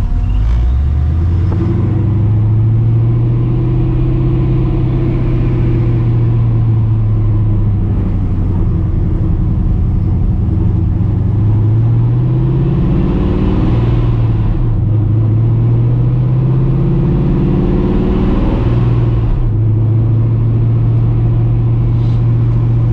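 Cammed, Procharger-supercharged 5.4 V8 of a 1999 Mustang GT running. The note holds steady, climbs from about 12 seconds in and falls back sharply near 15 seconds, then climbs again and drops back near 19 seconds.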